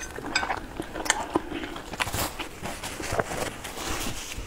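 Close-miked chewing of spicy food, with irregular small clicks from the mouth.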